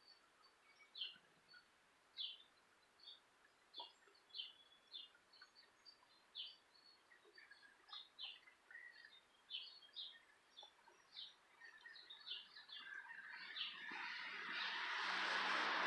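Small birds chirping faintly: short, high chirps at about one or two a second, irregularly spaced. Over the last few seconds a broad rush of noise rises steadily and drowns them.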